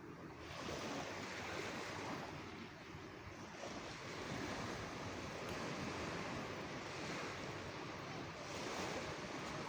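Sea waves washing onto a shore, a steady rush of surf that swells and subsides every few seconds.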